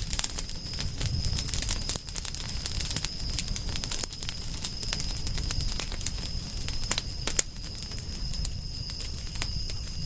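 Campfire burning, with frequent irregular crackles and pops over a low steady rumble of the flames. A steady thin high whine sits in the background.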